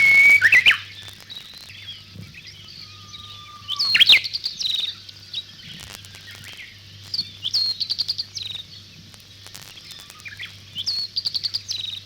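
Songbirds singing: long whistled notes, some held and then jumping up in pitch, and quick runs of repeated high chirps, loudest at the start and again about four seconds in.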